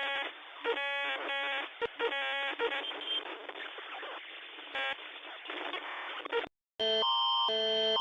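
Emergency alert broadcast audio with a thin, telephone-like sound: noise with short bursts of electronic tones. After a brief gap about six and a half seconds in, a loud electronic alarm tone starts, alternating between pitches about twice a second.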